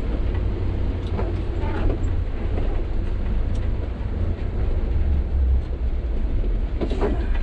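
Sany 6x4 dump truck driving, its diesel engine running steadily under a continuous low rumble of engine and road noise, with a few faint knocks and rattles.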